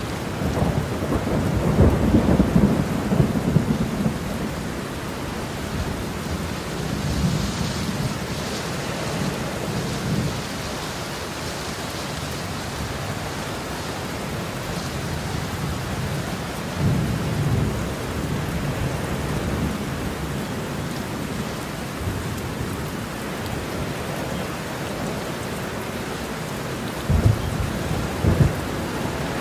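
Heavy rain falling steadily, with rolling rumbles of thunder. The loudest rumble comes about a second in and lasts a few seconds; weaker ones follow, and there are two short, sharper claps near the end.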